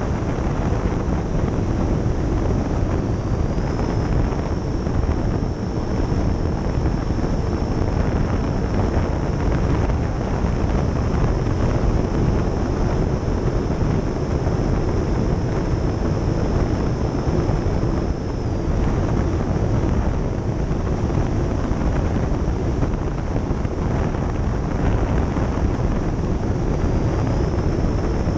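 Twin 70 mm electric ducted fans of an RC Me 262 whining in flight under heavy wind rush over the airframe. The fan whine rises with a throttle increase about four seconds in, falls back about eighteen seconds in, and climbs again near the end.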